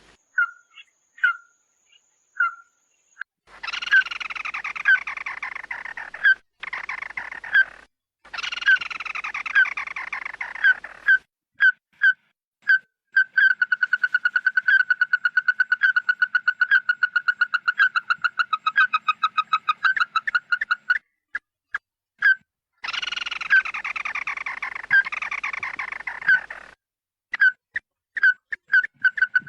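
Recorded calls of the bird known in Vietnamese as chim mắt đỏ, played as a lure: loud, repeated short notes at one pitch, a long fast run of such notes in the middle, and several harsh chattering phrases of a few seconds each that fall in pitch.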